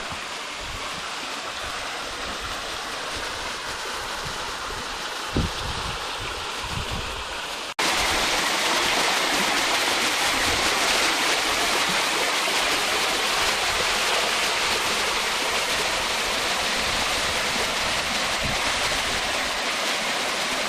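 Small woodland waterfall pouring into a rocky creek: a steady rush of falling and splashing water. About eight seconds in it cuts abruptly to a louder, brighter rush, nearer the falls; a brief low thump comes a little before that.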